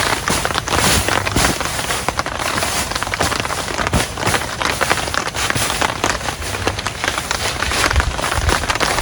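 Heavy rain falling on the campsite, a steady hiss with a dense scatter of sharp drop ticks.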